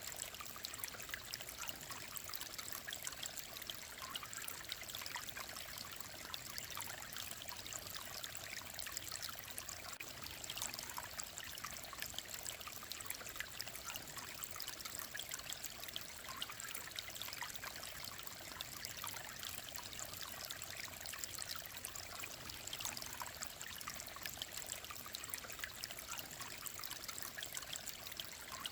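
Mountain valley stream flowing steadily, a continuous babble of many small splashes and trickles.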